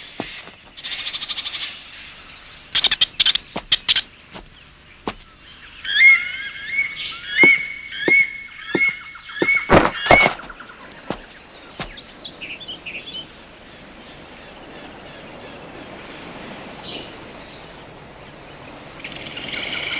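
Bird chirping in short repeated calls for several seconds, from an anime's forest soundtrack. Just before the chirping come several sharp clicks or knocks in quick succession, and two louder knocks break in near the end of the chirping. A faint steady hiss fills the later part.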